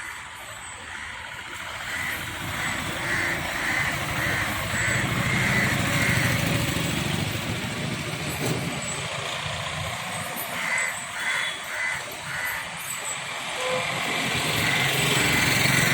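A crow cawing in runs of short, evenly spaced calls, over the low steady sound of a motor vehicle's engine that grows louder in the middle and again near the end.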